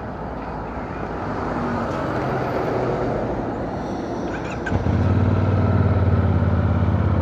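CFMoto 450NK parallel-twin motorcycle engine running under way, with wind and road rush. About two-thirds of the way in, the engine note grows louder into a steady low drone as the bike pulls harder.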